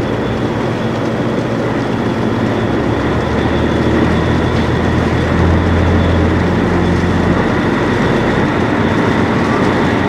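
Sightseeing boat's engine running steadily under way, a deep drone with hull and water noise heard on board; the low rumble swells between about four and seven seconds in.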